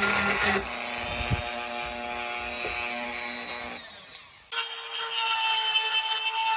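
Background guitar music fades out over the first few seconds. About four and a half seconds in, a small power tool cuts in abruptly and runs with a steady high whine.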